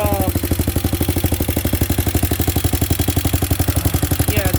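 Hawk 250 dirt bike's single-cylinder four-stroke engine running steadily at idle, an even, fast beat of firing pulses.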